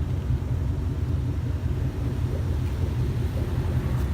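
Shelby GT500's V8 with a catless off-road H-pipe exhaust, rumbling steadily at low, even revs.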